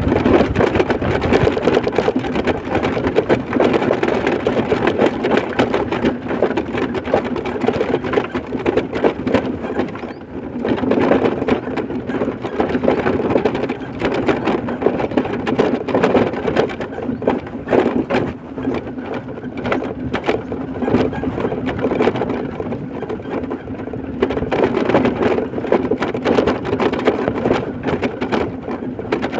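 Road noise of a moving vehicle heard from on board: a steady rush with a dense, fast rattle.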